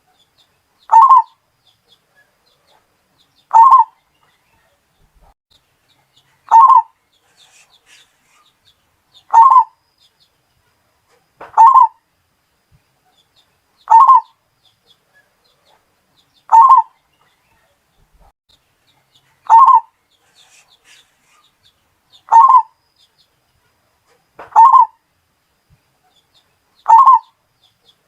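Bali-type zebra dove (perkutut) cooing. It gives a short coo about every two and a half to three seconds, eleven times over.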